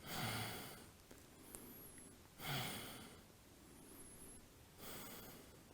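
Faint, slow breaths through the nose, three in a row about two and a half seconds apart, from a person holding a deep yoga stretch.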